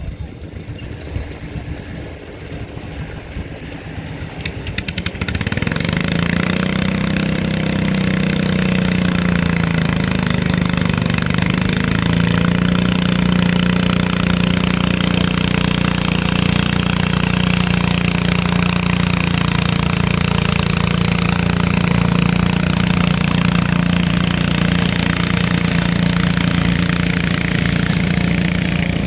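Garden tractor engine running hard at a tractor pull. It comes in loud about five seconds in, wavers up in pitch briefly, then holds a steady high-revving note.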